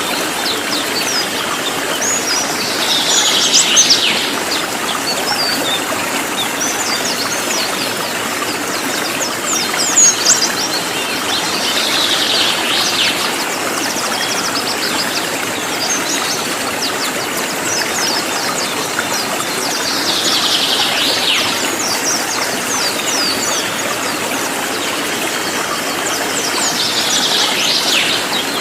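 Cililin songbird singing loud, tightly packed 'nembak' bursts, a dense cascade of high falling notes about every eight seconds, with quick chirps between them. Under it runs a steady rushing hiss like a stream.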